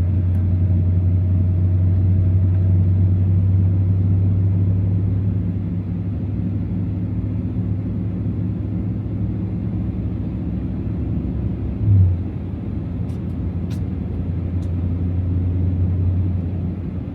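2024 Ram TRX's supercharged V8 and tyres running in snow, heard from inside the cab as a steady low drone that eases slightly after about five seconds. A brief louder low thump comes about twelve seconds in.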